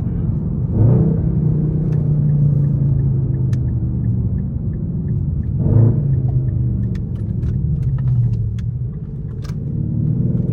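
Straight-piped Infiniti M56 5.6-litre V8 exhaust rumbling at low revs. Its pitch rises briefly about a second in and again around six seconds in, settles lower, then climbs again near the end.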